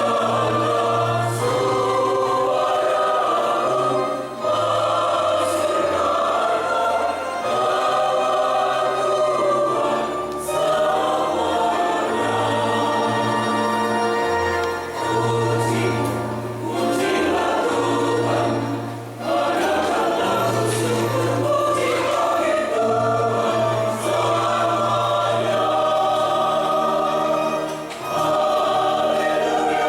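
Church choir singing a hymn in several-part harmony, in phrases with short breaks between them, over steady held low notes.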